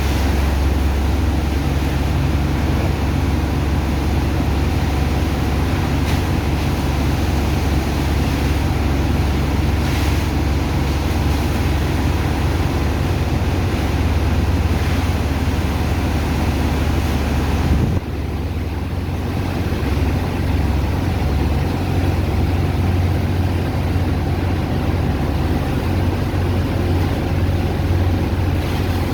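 Heavy engine of a sand-dredging pump rig running steadily with a deep drone, under a rushing noise. About eighteen seconds in, the deepest part of the drone drops off suddenly, then carries on a little weaker.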